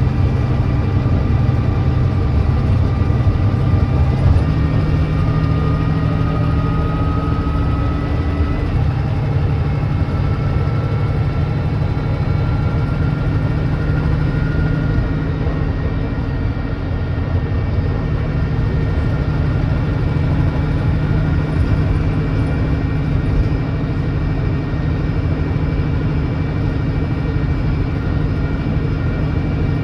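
Volvo D9B 9.3-litre diesel of a Volvo B9TL double-decker bus running at cruising speed, with its ZF Ecolife automatic gearbox shifting down from 6th to 5th a few seconds in, so the engine note rises, and back up to 6th around nine seconds, so it drops again, before running steadily. The engine has an exhaust leak.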